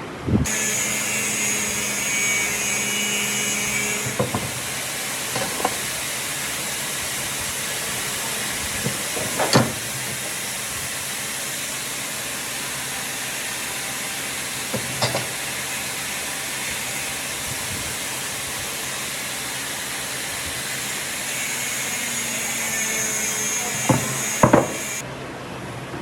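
A woodworking power tool running with a steady, loud hiss. It switches on abruptly about half a second in and cuts off about a second before the end. There is a whining tone in its first few seconds and again before it stops, and a few sharp knocks from the workpiece are heard along the way.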